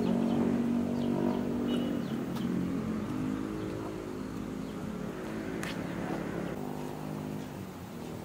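A small motorcycle engine running close by, a steady even hum that slowly fades.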